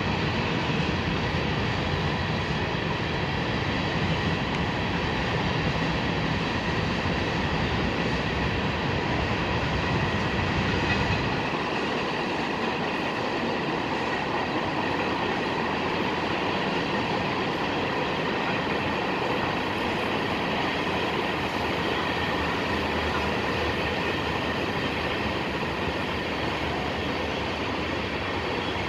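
A train rolling past, a steady noise of wheels on rail. A deep low rumble drops away about eleven seconds in, leaving the lighter rolling of the cars going by.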